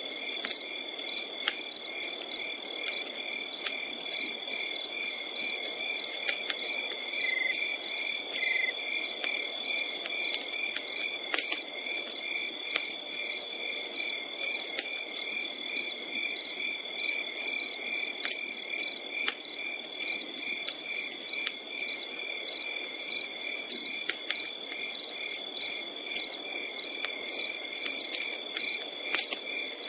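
Crickets chirping in a steady, evenly pulsing rhythm over a continuous high insect trill, with a campfire crackling in scattered sharp pops and a soft low hiss beneath.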